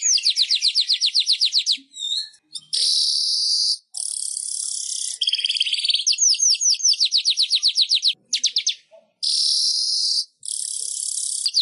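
Manyar weaver bird singing: long wheezy, hissing buzzes alternate with rapid trills of sharp chirps at about ten a second, in repeated phrases broken by short pauses.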